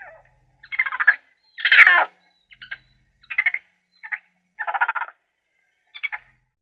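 A series of about eight short, rough animal calls at irregular intervals, the loudest about two seconds in.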